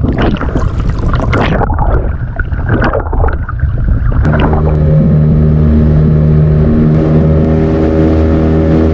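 Strong wind buffeting the microphone with water splashing around a small fishing boat; about four seconds in, the boat's engine starts up and runs steadily.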